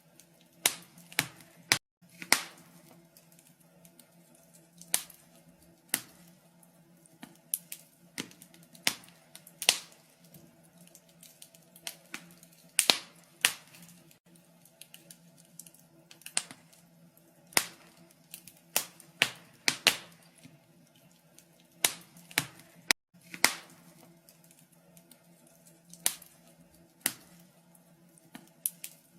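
Wood fire crackling in a fireplace: irregular sharp pops and snaps from the burning logs, several a second, over a faint steady low hum.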